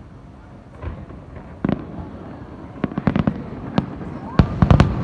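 Aerial fireworks bursting: scattered bangs with echoing tails that build into a quick, loud cluster of bursts near the end. A faint whistling tone rises and then falls over the last bangs.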